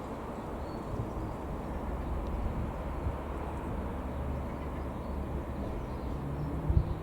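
Distant single-engine piston light aircraft, a Robin DR.400-180, droning steadily on a low approach, mixed with wind rumble on the microphone. There is a brief low bump near the end.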